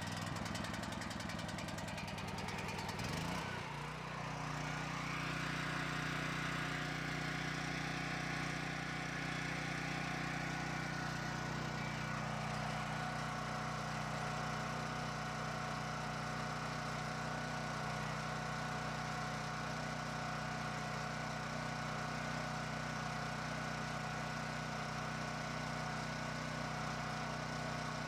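Champion 9000-watt portable generator's single-cylinder engine running just after its first start. The sound changes about three and a half seconds in, then it runs steadily.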